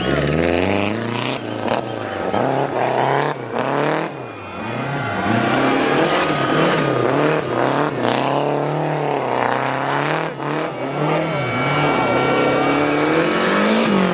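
Rally car engine revving hard, its pitch climbing and dropping many times as the throttle is worked on and off, with a few sharp cracks between one and four seconds in.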